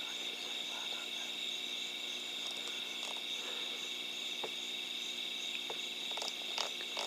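Steady, shrill night chorus of calling frogs and insects, with a few faint short clicks near the end.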